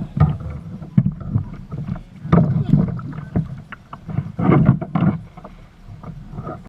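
Irregular knocks and bumps on a fishing kayak, louder in two bursts, once near the middle and again about two-thirds of the way in.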